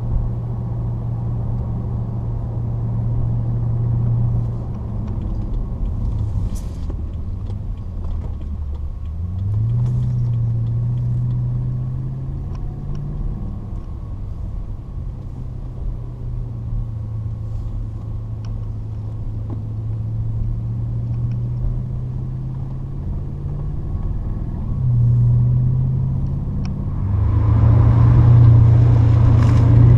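2013 BMW 750Li's V8 running through Flowmaster 50 Series Delta Flow mufflers while driving, a low steady rumble. The engine note climbs under acceleration about nine seconds in and drops at a shift a few seconds later. It rises again near the end and swells louder as the car pulls harder.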